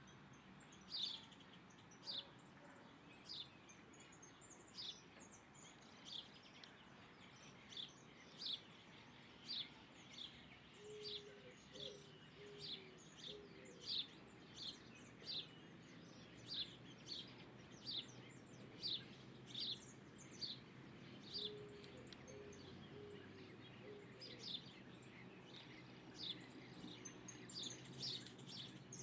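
A bird repeating a short, sharp high call about once a second. Two brief runs of soft low notes sound beneath it, one near the middle and one later on.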